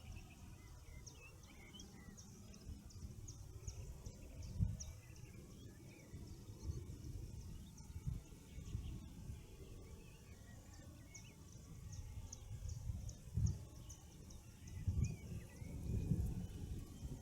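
Morning birdsong: one bird repeats a quick series of short, high notes twice, with other birds calling softly behind it. Low rumbles come and go throughout, loudest several times in the second half.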